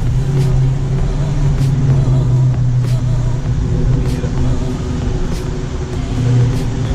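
2017 Dodge Daytona 392's 6.4-litre V8 engine running steadily at low speed, a loud, low drone.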